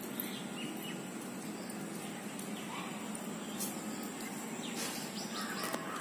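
Steady outdoor background hum with a few short bird chirps, most of them near the end.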